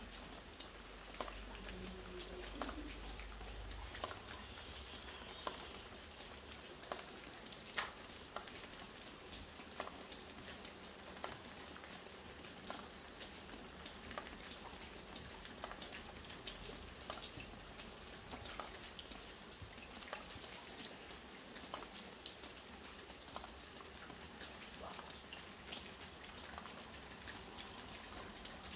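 Light rain falling, with drops dripping from a roof: a steady soft hiss under many sharp, irregular drop ticks.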